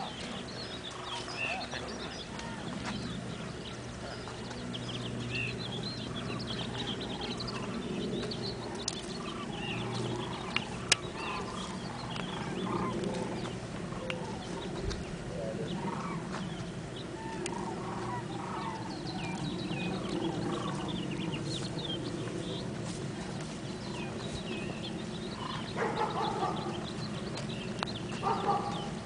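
Birds calling with short clucks and chirps, heard again and again over a steady background rush.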